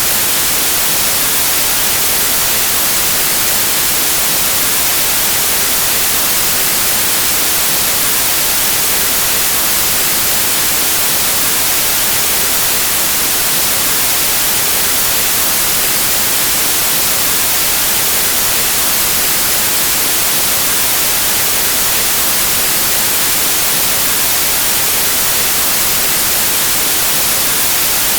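Steady, unchanging white noise: an even static hiss with no events in it.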